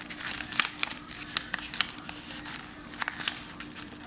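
A sheet of paper being folded and creased by hand: irregular small crinkles and taps, over a faint steady hum.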